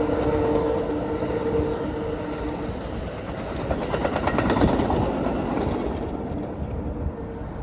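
Diesel-hauled passenger train passing, with a steady rumble throughout. Two steady low tones fade out after about two and a half seconds, and a quick run of wheel clicks over rail joints comes around the middle.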